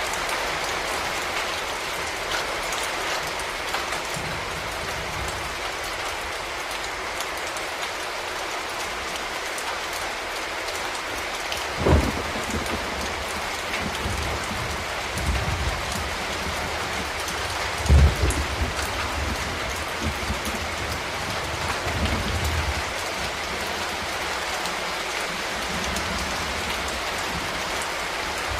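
Steady rain falling on a surface, with a few short, low thumps: the loudest about twelve seconds and eighteen seconds in.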